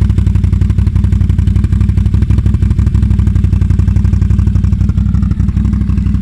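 A 650 motorcycle engine running steadily through a new MBRP aftermarket exhaust, loud, with an even, rapid firing pulse and no revving.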